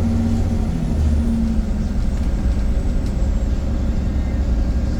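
VDL Pulsar single-deck bus running, heard on board as a steady low rumble. A humming tone over the rumble fades out a little under two seconds in.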